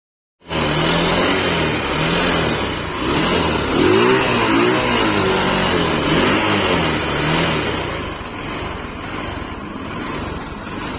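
Freedom motorcycle's single-cylinder four-stroke engine, with a newly fitted timing chain set, running and being revved up and down repeatedly. It starts abruptly about half a second in and settles lower near the end.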